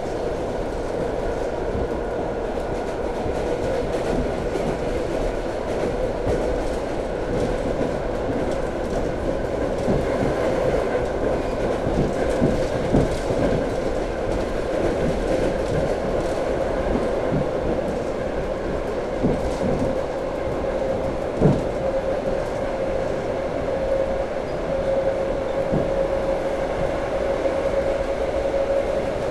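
Electric commuter train running along the line, heard from inside the carriage: a steady rumble with a constant whine that rises slightly in pitch near the end, and occasional knocks from the running gear.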